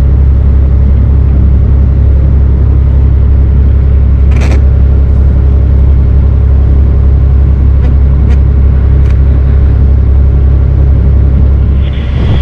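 Steady low rumble of a motor barge under way, with a short sharp knock about four and a half seconds in.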